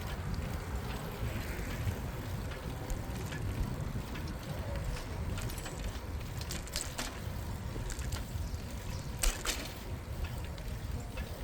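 Steady low rumble of a bicycle ride on a city street, wind and tyre noise at the handlebar microphone, with a few sharp clicks about halfway through and a louder pair about nine seconds in.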